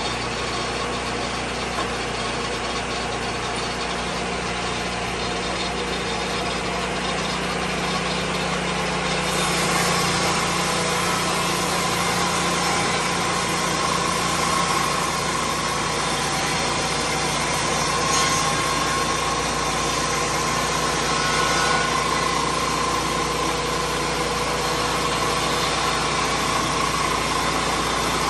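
Lucas Mill swing-blade sawmill's engine running steadily. About nine seconds in it grows a little louder, with more high-pitched hiss.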